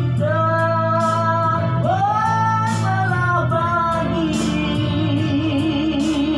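A singer holding a long high note over band backing, the pitch sliding up and back down about two seconds in; from about four seconds a lower, wavering melodic line comes forward.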